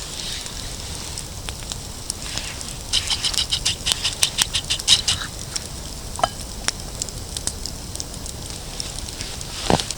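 Campfire of damp wood crackling, with irregular clusters of sharp pops and clicks over a soft hiss.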